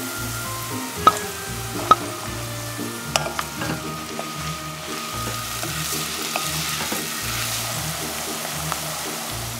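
Diced onion, carrot and mushroom sizzling as they fry in an enamelled cast-iron pot, stirred with a wooden spatula. There are two sharp knocks about one and two seconds in. Soft background music plays underneath.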